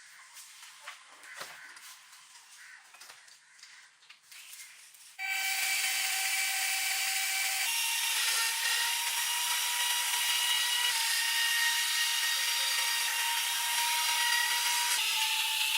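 Light clicks and handling taps, then about five seconds in a power grinder starts working steel and runs steadily with a high whine. The whine shifts slightly in pitch twice.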